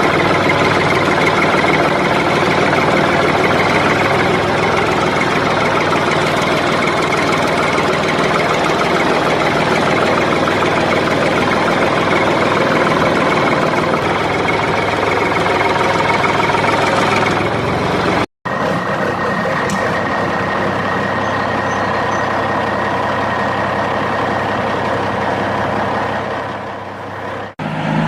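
A vehicle engine running steadily, cut off abruptly twice, about 18 seconds in and near the end.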